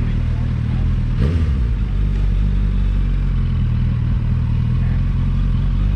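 Car engine running with a steady low rumble, with a brief sharp sound that drops in pitch about a second in.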